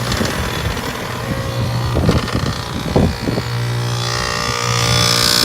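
2001 Amana heat pump's compressor running with a steady hum. About four seconds in, a loud rising hiss of refrigerant sweeps over it as the unit shifts into its defrost cycle.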